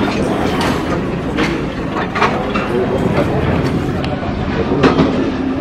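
Freight train of open-top wagons rolling slowly past: a steady rumble of steel wheels on the rails, with a few sharp clanks from the wheels and couplings.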